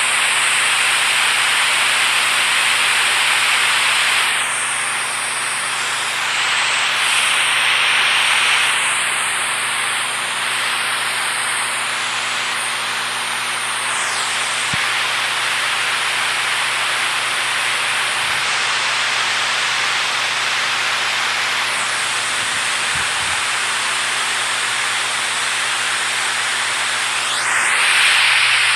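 Running water rushing steadily: a dense, even hiss that swells slightly now and then.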